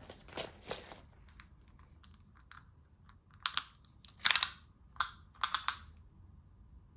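Knitting sounds: light clicks of knitting needles and rustling of yarn and fabric being handled, with a cluster of louder clicking, rustling bursts a few seconds in.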